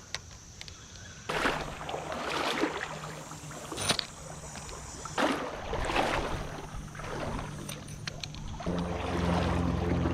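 Water swishing and splashing in a rough rhythm, about once a second, as legs wade through a river current. Music comes in near the end.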